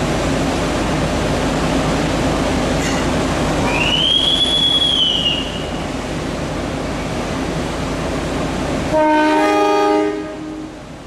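Passenger train running on the rails with a steady rumble, a high wheel squeal rising and fading about four seconds in. About nine seconds in, a loud two-note train horn sounds for about a second, and the rumble drops away after it.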